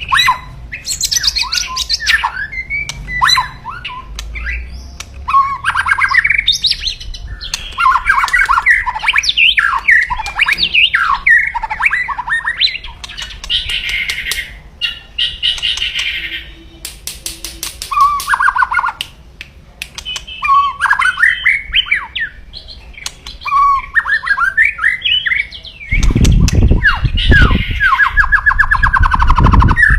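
White-rumped shama (murai batu) giving loud, harsh 'kretekan' calls mixed with song phrases, the aggressive challenge call that excites rival males. Near the end comes a fast, even rattle series over a loud low rumble.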